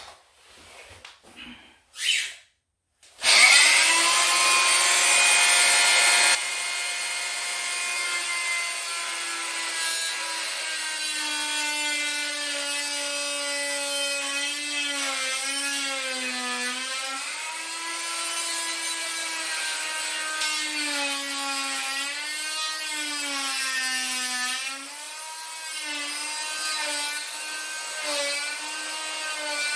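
A power tool cutting into wooden baseboard, preceded by a few light knocks. It starts about three seconds in as a loud, steady motor whine, and its pitch dips and wavers as the blade bites. It is loudest for the first few seconds, then settles somewhat quieter.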